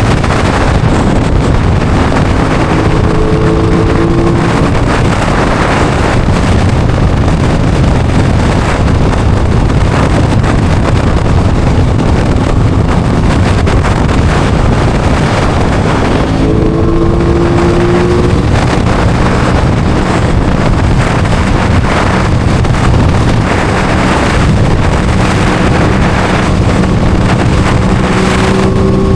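Aprilia Tuono 660's parallel-twin engine running under way, its pitch rising three times as it pulls, under heavy wind noise on the microphone.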